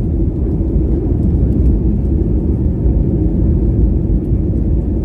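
Airliner cabin noise during takeoff: a steady low rumble of engines and airflow heard from inside the cabin.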